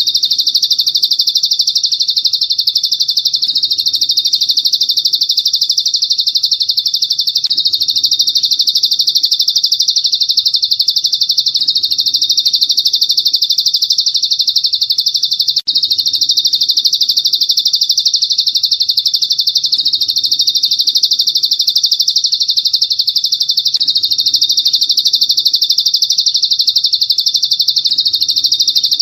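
Recorded songbird masteran: one unbroken, very rapid, high-pitched trilling song that breaks off for an instant about halfway through and goes on unchanged.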